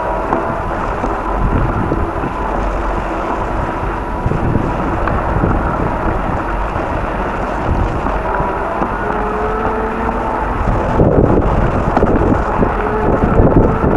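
Strong wind buffeting the microphone during a winter bicycle ride: a steady, loud rumble that grows rougher and louder in gusts near the end.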